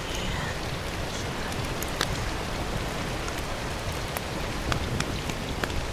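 Water splashing and trickling steadily, with a few small drips or clicks, the sharpest about two seconds in.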